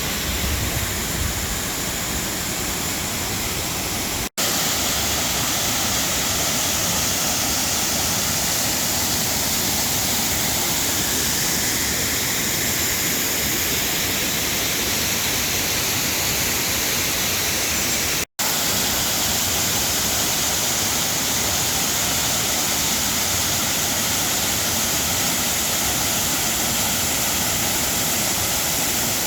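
Waterfall: a steady rush of falling water, broken twice by a momentary gap where the sound cuts out completely.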